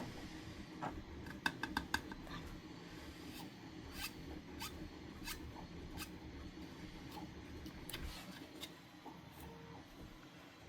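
A series of sharp clicks over a low hum: a quick run of about six about one and a half seconds in, then single clicks every half second or so until near the end.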